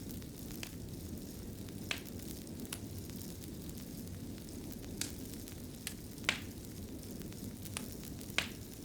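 Fireplace fire crackling: a steady low rumble and hiss broken by about eight sharp, irregular pops, the loudest about six and eight seconds in.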